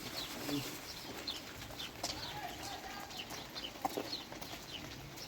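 Small birds chirping: short high chirps repeating irregularly, several every couple of seconds, over a steady background hiss.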